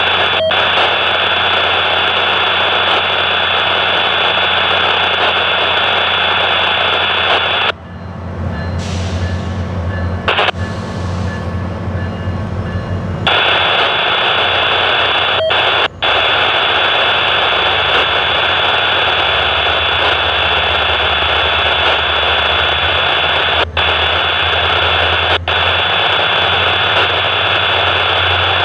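SunRail diesel push-pull commuter train pulling out of a station: loud, steady mechanical noise with a high whine over a low rumble. About a third of the way in, the whine and hiss drop away for several seconds while the deeper rumble comes up, then they return.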